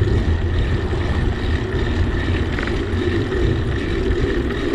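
Steady low rumble of wind on the microphone and road noise from a bicycle being ridden, with a faint steady high whine.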